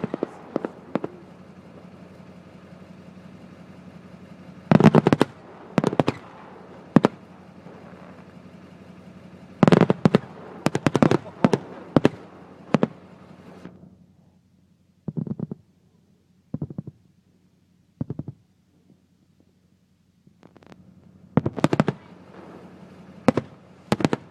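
Fireworks bursting overhead: clusters of sharp bangs every few seconds, each trailing off briefly. In the middle there are a few fainter single reports, then a fresh volley of loud bangs near the end.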